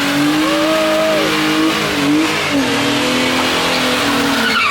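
Car engine held at high revs, steady with a brief dip in pitch about two seconds in, as a car is revved and spun.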